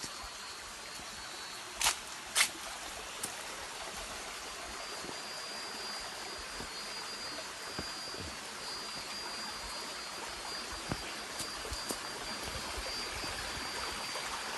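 Small waterfall cascade, water running steadily over rock. Two sharp clicks stand out about two seconds in.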